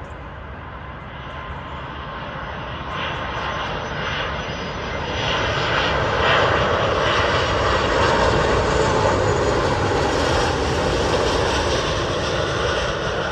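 Airbus A330 airliner's jet engines passing low overhead on final approach to land. The noise builds for about six seconds, holds loudest for several seconds, then begins to fade near the end.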